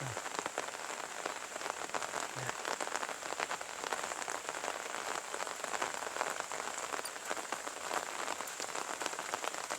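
Steady drizzling rain falling: an even hiss with a dense, irregular patter of drops.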